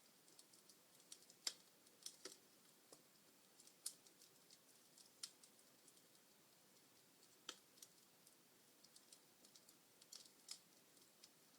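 Wood fire in a fireplace crackling: faint, irregular pops and snaps from the burning logs over a soft hiss. The sharpest pops come about a second and a half in and again near four seconds.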